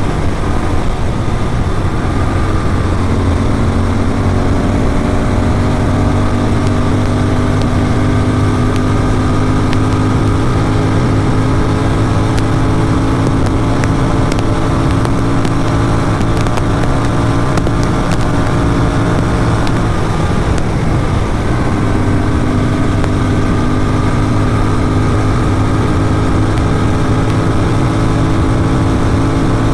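Motorcycle engine with an Atom exhaust running hard at steady highway speed, its pitch creeping slowly upward. There is a brief dip and shift in the tone about two-thirds of the way through, under a low rush of wind noise.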